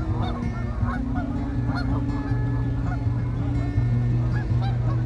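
A large flock of Canada geese honking, many short calls overlapping continuously, over a steady low hum.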